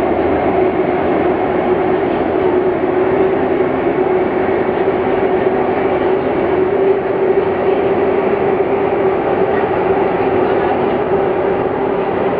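Running noise inside a moving metro train car: steady rolling and rumble with a constant hum, the train cruising at an even speed.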